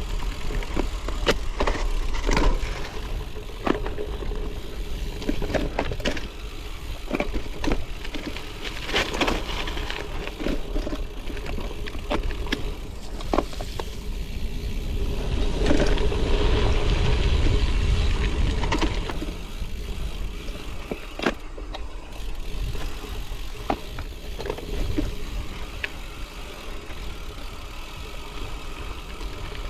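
Gravel bike rolling over a dirt and gravel trail, heard close up: a steady low rumble and tyre noise, with many sharp rattles and clicks as the bike jolts over bumps. The riding gets louder for a few seconds around the middle.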